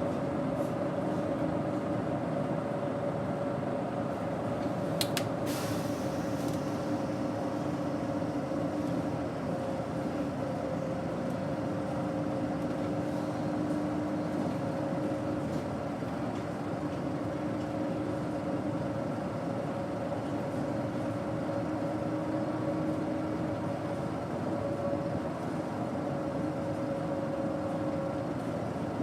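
Daewoo BS110CN bus with its Doosan GE12Ti natural-gas engine running steadily under way, a continuous drone with a steady whine over it. There are two sharp clicks about five seconds in.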